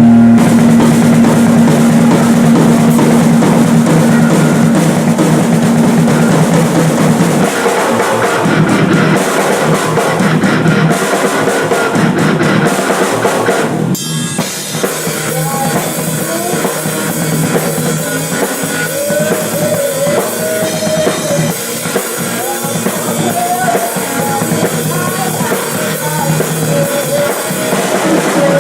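Rock band playing a song live, with the drum kit loud and up front: kick drum, snare and cymbals driving it. About halfway through the music breaks off for a moment and comes straight back in.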